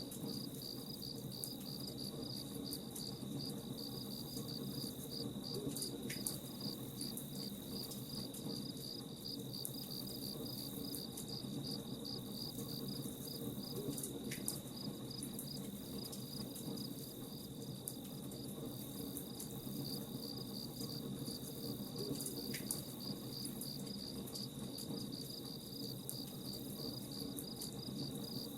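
Crickets chirping in a fast, even pulse with a steady high trill under it, over the low crackle of a campfire. Three sharp pops stand out, spread across the stretch.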